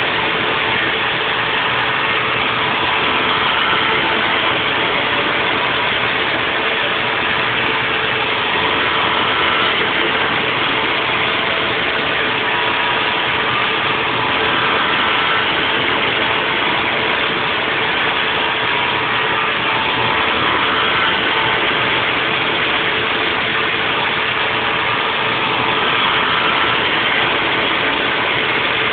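Haas VF4 CNC mill machining a 3D nest block: steady spindle and cutting noise with a constant whine, the level swelling gently about every five to six seconds.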